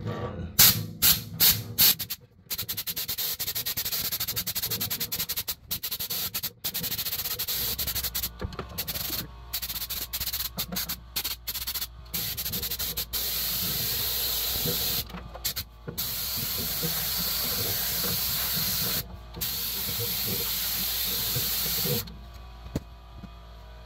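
Compressed-air blow gun hissing in repeated blasts with short breaks, a few quick short bursts at first and then longer ones, blowing dust out of a gas water heater's combustion-air intake grate. A clogged grate starves the pilot of air and makes it go out.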